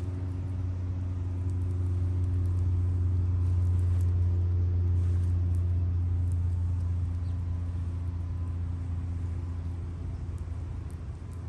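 A low, steady motor hum with a droning pitch, swelling to its loudest about four seconds in and easing off after about seven seconds.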